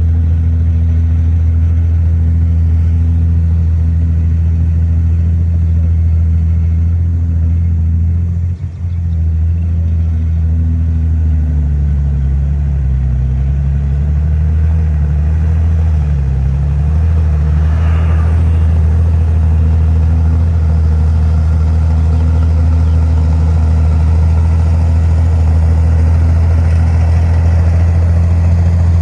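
Heavy diesel engine of earthmoving machinery running loud and steady. Between about ten and seventeen seconds in, its pitch wavers up and down as the load changes.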